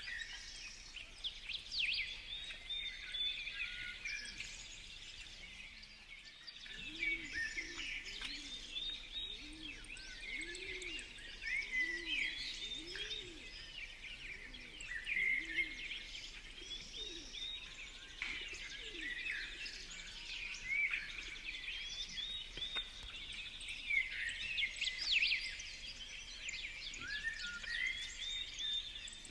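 Many small songbirds chirping and calling at once, with quick overlapping chirps throughout. From about 7 to 16 seconds in, a series of low cooing notes sounds about once a second underneath, of the kind pigeons make.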